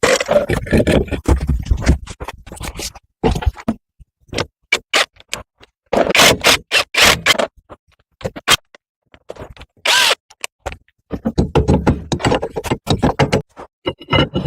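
Intermittent scraping, clanking and knocking of hand tools on metal car parts, in short irregular bursts with brief pauses between them.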